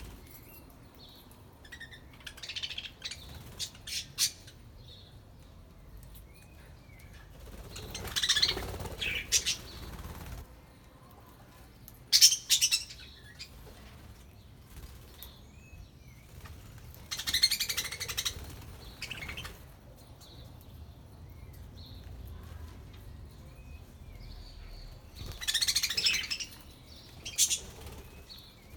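Budgerigars chirping and chattering in bursts, with occasional wing flaps, the loudest bursts coming about 8, 12, 18 and 26 seconds in.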